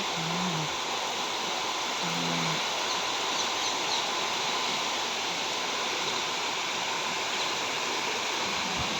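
Steady rain falling, an even hiss. Two short low calls from a chicken come in the first three seconds.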